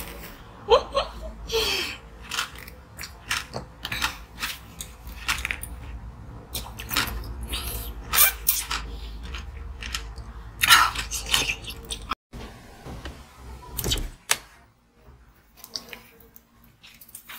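Close-miked eating and drinking mouth sounds: chewing, with many short wet clicks coming in quick, irregular strokes. They thin out after a cut about twelve seconds in.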